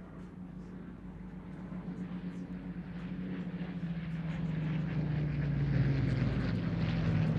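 Rolls-Royce Merlin V12 piston engine of a Second World War fighter flying past, its drone growing steadily louder as it approaches.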